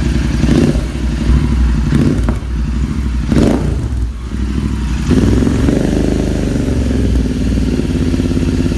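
Royal Enfield Interceptor 650's parallel-twin engine running through aftermarket Red Rooster exhausts with the dB killers removed, given light throttle. A few short blips come in the first few seconds, then a longer, louder rev starts about five seconds in.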